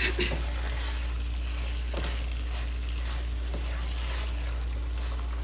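Beef, onions and peppers in a sauce sizzling steadily in a stainless skillet while being stirred with a silicone spatula, with a few soft scrapes, over a steady low hum.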